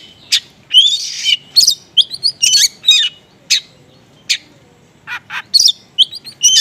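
Oriental magpie-robin (kacer) singing a rapid string of short, sharp chirps and whistles, its song made up of small-bird calls. There is a pause of about a second and a half in the middle.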